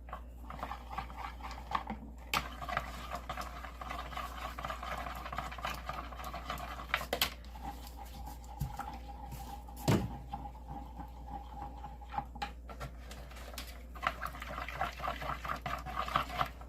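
A utensil stirring melted melt-and-pour soap in a container, with faint, irregular light scraping and clicking against its sides, and one sharper knock about ten seconds in.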